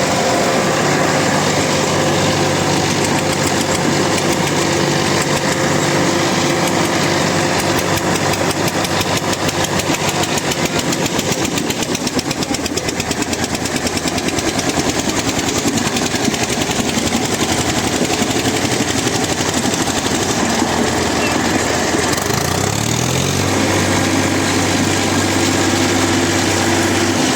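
Diesel tractor engines running hard under load, pulling against each other in a tug-of-war. The engine note holds steady, then rises in speed about three-quarters of the way through.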